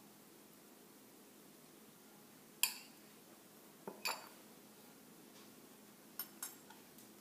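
Dishes and utensils clinking in a few sharp strikes: the loudest about two and a half seconds in, a pair around four seconds, and two quicker ones past six seconds.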